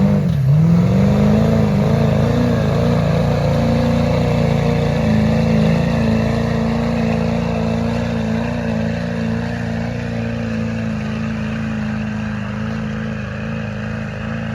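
Engine of a pulling vehicle at full throttle during a pull: the revs climb and dip in the first second, then hold steady and high while the sound slowly grows fainter.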